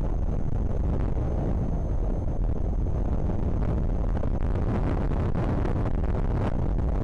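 Strong wind buffeting the microphone of an outdoor nest camera: a steady, heavy, low rumble.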